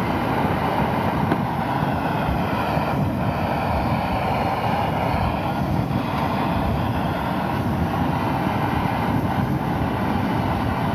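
Steady rushing roar of rain on a tarp, mixed with a camping stove heating a pot of water toward the boil.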